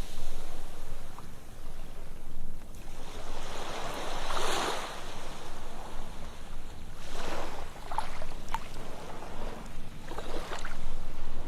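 Ocean waves breaking and washing on a sandy beach, the surf swelling in about every three seconds with small splashes.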